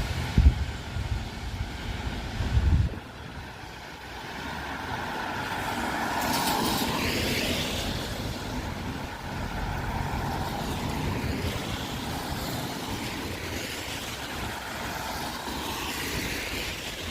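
Traffic passing on a wet street, tyres hissing on the rain-soaked road, one vehicle swelling up and fading about six to eight seconds in and another near the end. In the first three seconds, wind buffets the microphone with a low rumble.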